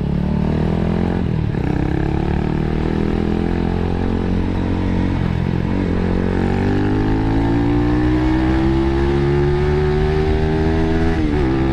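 Motorcycle engine breathing through a stock muffler modified to a 51 mm outlet, accelerating hard under way. Its pitch climbs steadily through a long pull and drops at gear changes about a second in and near the end.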